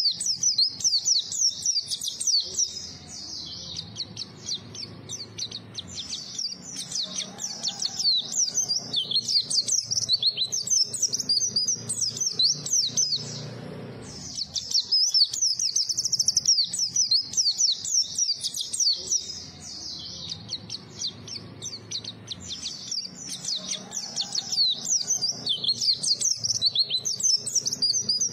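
White-eye (pleci) singing a fast, high warbling song of rapid chirping notes. There is a brief break about halfway, and then the same passage repeats.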